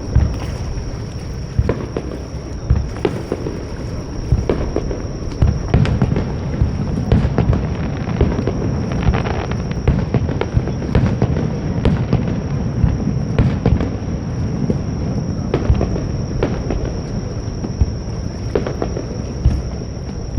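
Fireworks display: aerial shells bursting in many quick booms and sharp cracks over a continuous low rumble.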